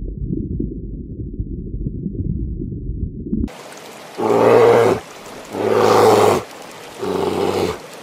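A muffled low rumble with crackling for about three and a half seconds, then three loud, drawn-out black bear roars, each just under a second long and about a second and a half apart.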